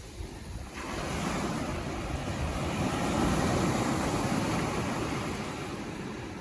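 Ocean surf washing onto the shore: the hiss of the surf comes in suddenly about a second in, swells to its loudest around halfway through, then eases. Low rumble of wind on the microphone underneath.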